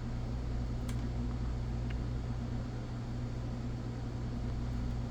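Steady low background hum, with one light click about a second in and a fainter tick shortly after.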